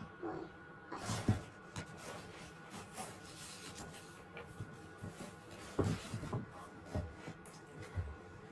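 Irregular light taps, knocks and rubbing of toys being handled and moved across a surface.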